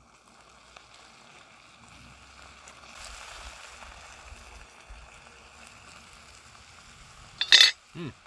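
Diced food frying in a pan over a paraffin-wax buddy burner, a faint steady sizzle. Near the end comes a brief loud noise, then a short vocal sound.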